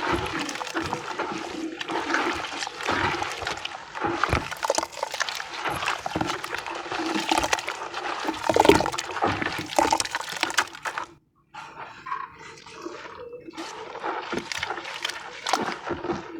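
Sand and white cement crumbling and dissolving in water, a wet crackling and sloshing full of small crackles as the pieces break up into paste. It stops briefly about eleven seconds in, then goes on more quietly.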